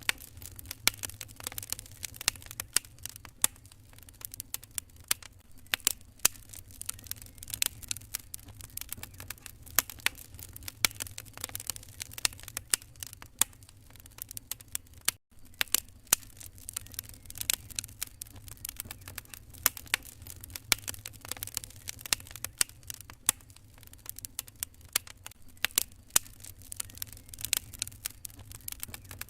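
Wood fire crackling in a fireplace: irregular sharp pops and snaps over a soft, steady low rumble, with a brief dropout about halfway through.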